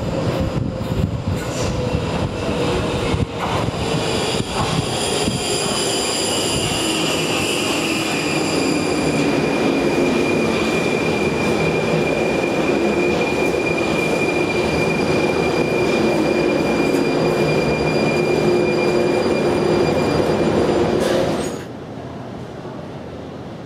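Prague metro train running, with a steady rumble of wheels and rails, clicks in the first few seconds and whining tones that glide down in pitch and then hold steady. The noise drops away suddenly near the end.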